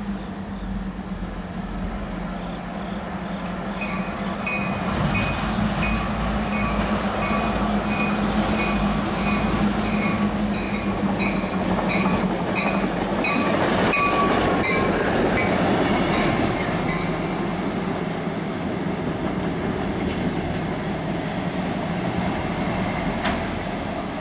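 A diesel locomotive-hauled train approaching and passing, with a steady engine drone and rising wheel-and-rail rumble. A bell rings about twice a second from about four seconds in until well past the middle.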